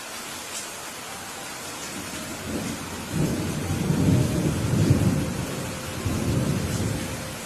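Steady rain with a rolling rumble of thunder that builds about two and a half seconds in, is loudest around the middle, swells once more and dies away near the end.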